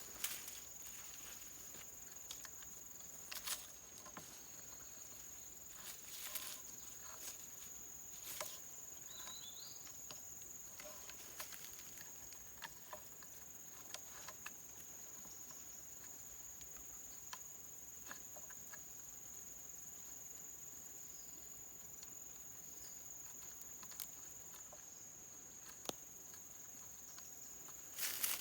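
Insects droning on one steady high pitch, with scattered light clicks and taps every few seconds.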